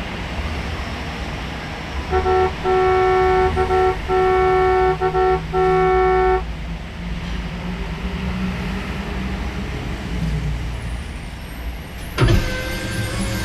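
A vehicle horn honks in about five blasts of different lengths, one long two-note tone, over a steady low engine rumble. A sharp knock sounds near the end.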